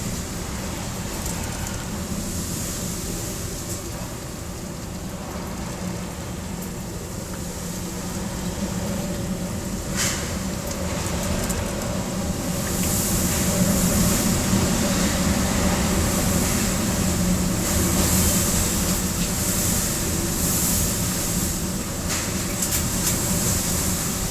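Typhoon-force wind gusting around a building, a continuous rushing rumble that grows louder about halfway through in surging gusts. A single sharp knock comes about ten seconds in.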